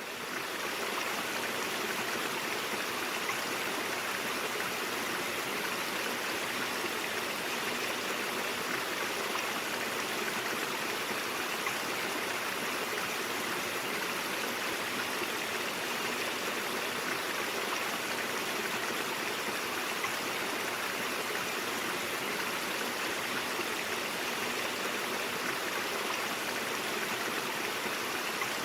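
Stream water flowing in a steady, even rush, fading in over the first second.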